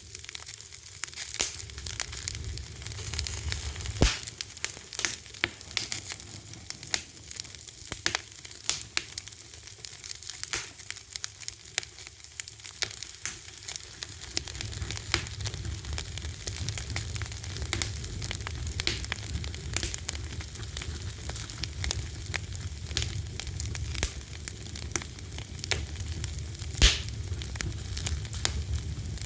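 Wood fire burning with a steady hiss and many sharp crackles and pops, one especially loud pop near the end, over a low rumble that grows stronger about halfway through.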